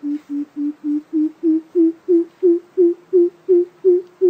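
Coucal giving its deep hooting call: a long, even series of low hoots, about three a second, the pitch rising slightly as the series goes on.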